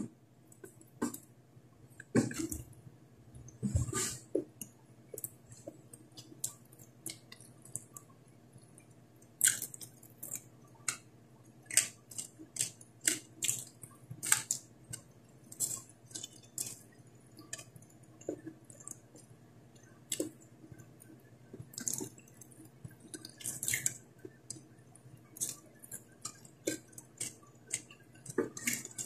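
Close-up eating sounds of boiled potato and fried fish: wet chewing with irregular sharp lip smacks and mouth clicks, often one or two a second.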